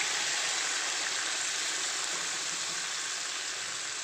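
Yoghurt-marinated chicken pieces with onion and capsicum sizzling in hot oil in a frying pan, just added: a steady, even hiss.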